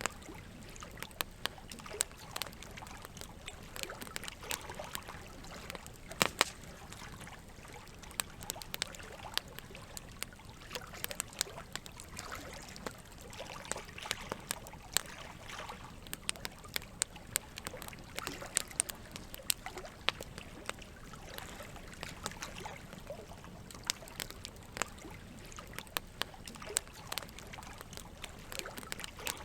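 Campfire wood crackling with irregular sharp pops, a few louder ones such as about six seconds in, over a steady trickle of running water.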